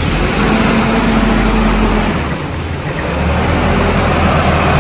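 Nissan 240SX's KA24 inline-four engine running just after being started, its note dropping and settling about two seconds in.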